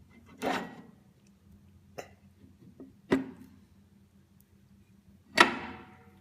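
Metal gearbox parts knocking and clanking as they are handled and set down during a Hydramatic automatic transmission rebuild: four separate knocks, the loudest near the end ringing briefly.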